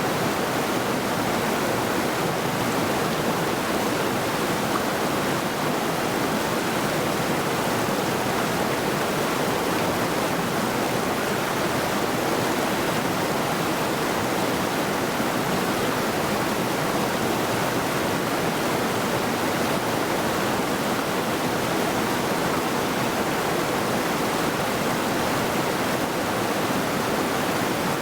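Mountain river rushing over rocks, a steady, even roar of moving water with no breaks or changes.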